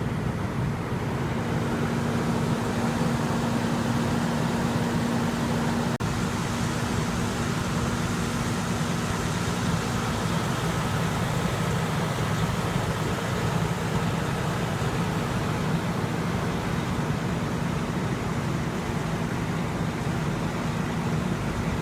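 Steady rumble of idling heavy diesel engines, with faint steady tones drifting in and out over it.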